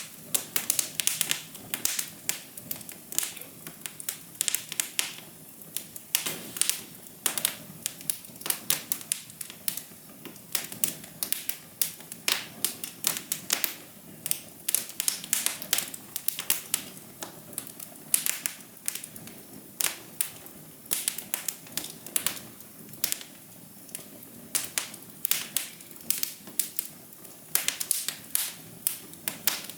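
Wood fire crackling: irregular sharp pops and snaps, several a second in clusters, over a soft steady hiss.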